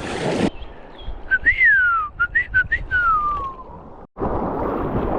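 A person whistling: a long note that rises briefly and then slides down, a few short notes, then another long falling note, over faint background noise.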